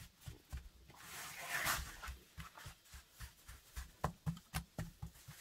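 Hands patting and pressing a soft semolina dough into a flat galette on a wooden board, soft low pats about two or three a second. A brief rustling hiss about a second in, and a couple of sharper taps near the end.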